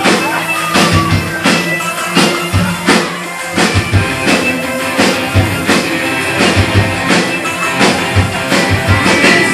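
Pop-rock band music without vocals: a drum kit keeps a steady beat under guitar.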